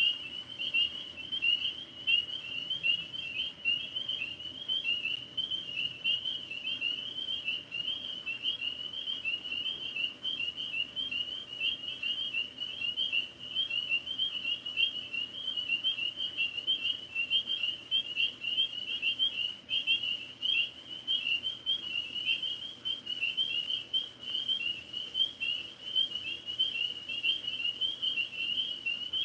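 Chorus of tree frogs calling from the trees, a dense, continuous high-pitched trilling made of many overlapping rapid pulsed calls.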